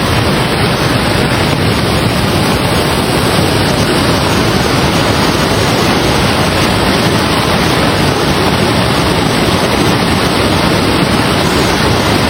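Fast-moving floodwater rushing: a loud, steady roar with no break.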